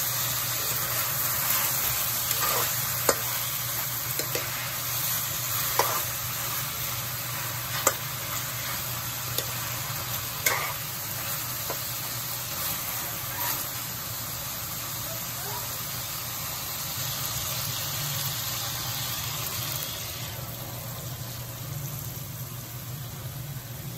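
Chicken, onion and tomato sizzling in a wok, stirred with a metal spoon that clicks and scrapes against the pan a few times in the first half. The sizzle eases a little near the end.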